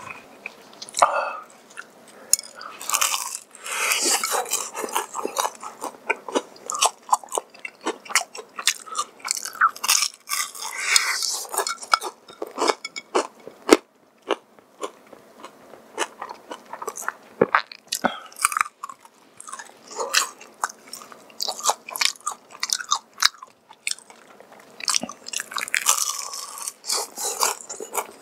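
Close-miked chewing and biting of crispy honey-glazed Kyochon fried chicken: an irregular run of crackling crunches and wet mouth sounds.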